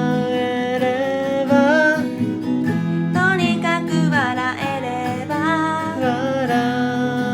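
Acoustic guitar strummed, with a sung melody line over it.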